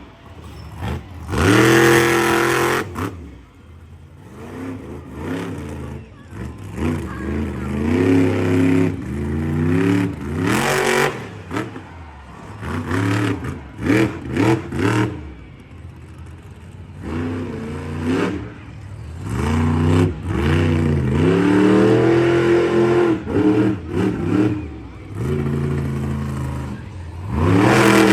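Monster truck engine revving hard again and again, its pitch climbing and dropping with each throttle blip. The loudest full-throttle surges come about two seconds in, near the middle and at the end.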